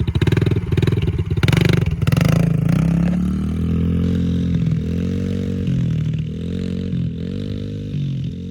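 Yamaha TT-R110 dirt bike's small single-cylinder four-stroke engine running close by with a rapid even beat, then revving about a second in as the bike pulls away. Its pitch then rises and falls repeatedly with the throttle as it rides off, a little fainter.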